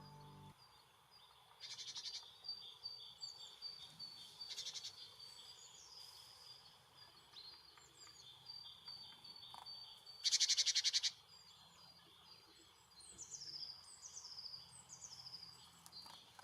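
Small songbirds chirping and calling in short high twittering notes, with a quick series of falling notes near the end and a brief loud rasping burst about ten seconds in.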